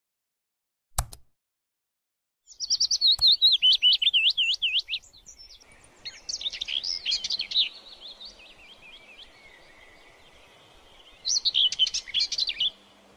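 A single click about a second in, then a songbird singing in three bursts of quick, high, rising-and-falling whistled notes.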